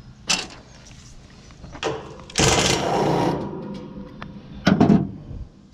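A power driver whirring for about a second as the sheet-metal housing of an air conditioner is taken apart, with sharp metal clanks and knocks before and after it.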